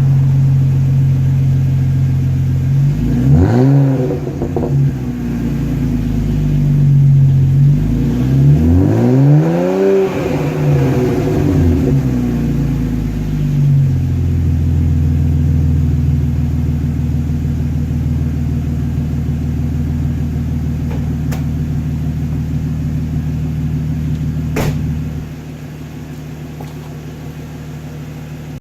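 BMW E46 330Ci ZHP's 3.0-litre inline-six idling cold through a muffler-delete exhaust. It is blipped once briefly, then revved up and back down over about four seconds before settling back to a steady idle. Near the end a click is followed by a sudden drop in level.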